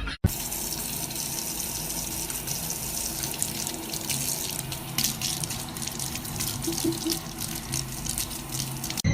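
Steady noise of running water, like a tap running.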